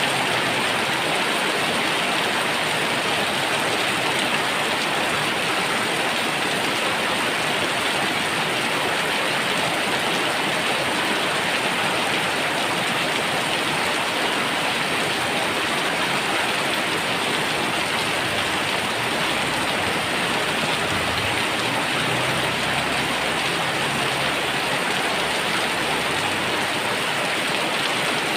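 Heavy rain falling steadily, a dense even hiss of rain on surfaces. A faint low rumble comes in about two-thirds of the way through and fades.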